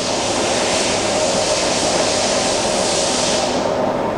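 Poreba TR 115B2/4M heavy-duty engine lathe running with a steady hum, under a loud hiss that cuts off about three and a half seconds in.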